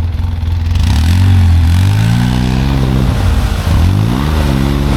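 Side-by-side UTV engine revving up and falling back several times under load as a machine stuck in deep snow is pulled out on a recovery rope.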